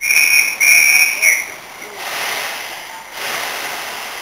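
Steam locomotive whistle sounding two short blasts and a brief third that trails off, then a steady hiss of escaping steam that swells again about three seconds in.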